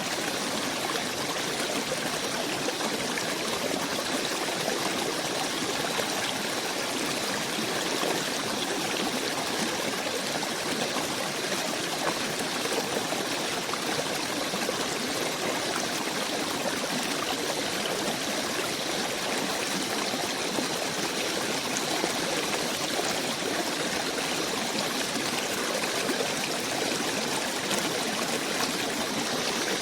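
Steady running water of a small stream, an even rushing and trickling that does not change.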